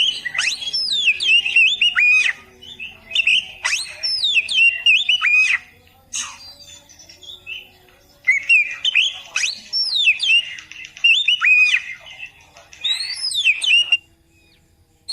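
Oriental magpie-robin singing: quick, varied whistled phrases with sharp up-and-down glides, in two long bursts separated by a gap of a couple of seconds in the middle, breaking off about a second before the end.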